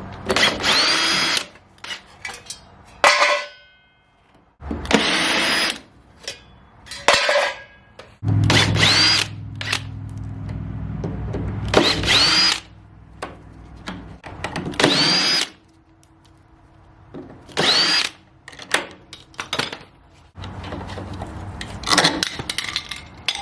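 Power drill run in about eight short bursts, spinning up and winding down each time, as it unscrews a water heater's lower heating element.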